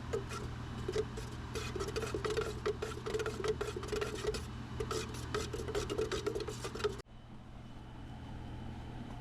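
Rapid rubbing and scratching with many small clicks, like hand work on a surface. It cuts off abruptly about seven seconds in, leaving a steady low hum.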